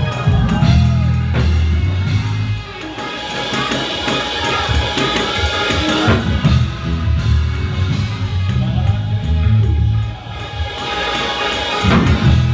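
Live church worship music from a band with a drum kit, played steadily under the service.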